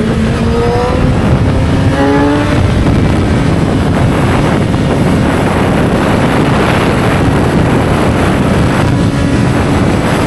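Motorcycle engine accelerating, its pitch rising over the first few seconds, then largely buried under heavy wind rush over the microphone at speed; the engine tone comes through again near the end.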